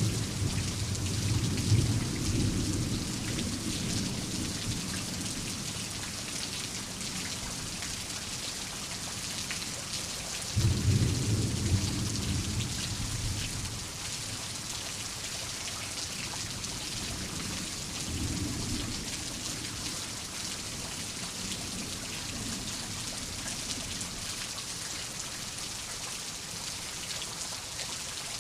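Steady heavy rain with rolling thunder. One rumble dies away over the first few seconds, a sharper crack about ten seconds in rolls off over several seconds, and a softer rumble comes near the twenty-second mark.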